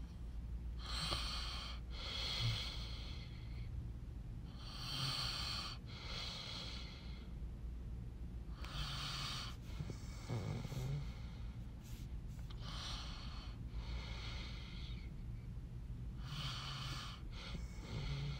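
A person breathing close to the microphone, slow and regular, each breath a hissing in-and-out pair, five in all about every four seconds.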